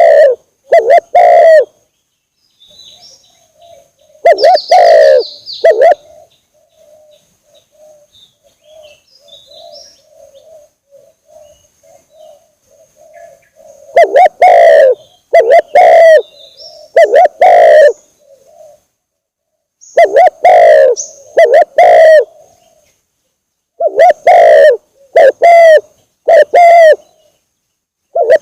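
Spotted doves (tekukur) cooing: loud coos come in short runs of two to four, with softer, quieter cooing carrying on between the runs.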